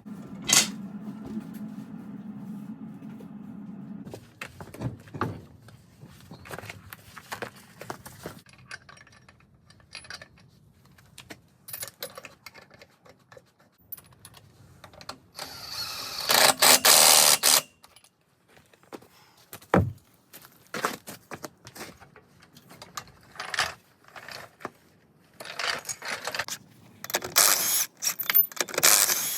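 Metal tools and parts clinking and clicking during hands-on work, with a steady low hum for the first few seconds and two loud bursts of noise, one in the middle and one near the end.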